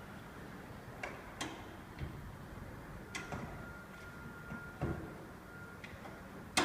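Irregular light clicks and knocks, the sharpest near the end, with a faint steady high tone starting about three seconds in.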